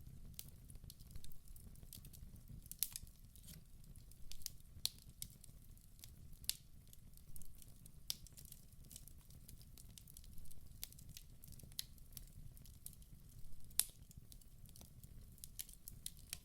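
Wood fire burning in a fireplace: frequent irregular sharp crackles and pops over a low steady rumble, the loudest pop about fourteen seconds in.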